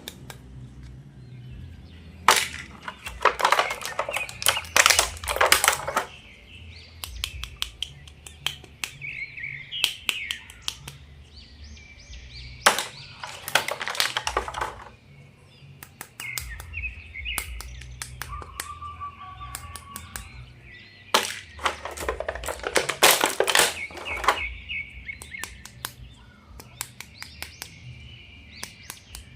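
Plastic toy packaging crinkling and crackling in three bursts of a few seconds each as it is handled and opened. Between the bursts a faint, wavering high chirping tone.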